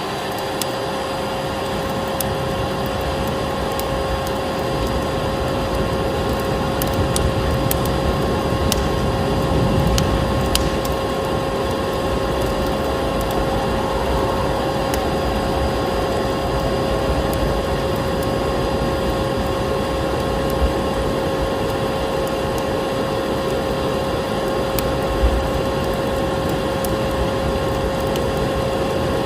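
Vacuum cleaner motor running steadily with a constant whine, layered with a crackling wood fire that gives occasional sharp pops.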